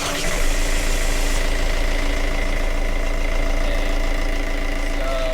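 Yanmar marine diesel engine just started and running steadily at idle, freshly fitted with a new wet muffler that is being checked for leaks.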